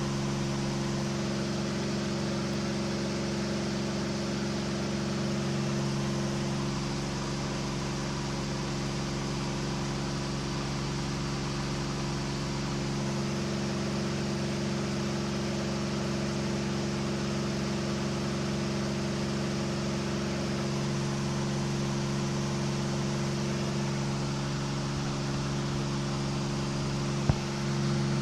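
KR2 light aircraft's engine and propeller running steadily in flight, an even drone with a rushing hiss of air over it. A single brief click near the end.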